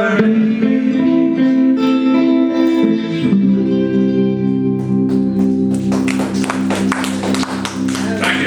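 Acoustic guitar playing alone: picked notes and chords ringing out, then rapid, even strumming of a chord from a little past halfway.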